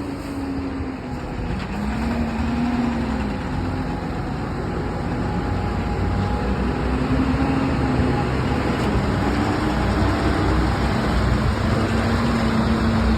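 Truck engine running under way, its pitch rising and falling as the speed changes, and growing louder towards the end.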